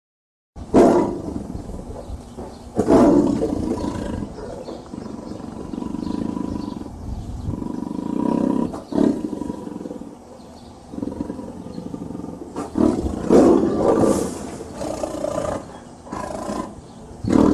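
Tiger roaring and growling: a loud roar about half a second in and another about three seconds in, long rumbling growls between them, and a cluster of roars again past the middle.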